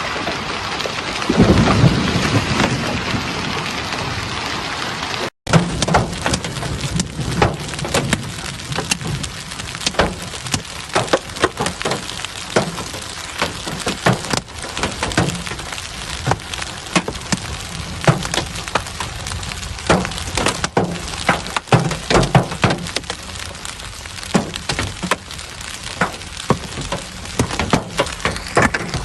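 Heavy rain hissing, with a low rumble about two seconds in. After a brief cut, large hailstones clatter down as a dense run of sharp impacts over the rain.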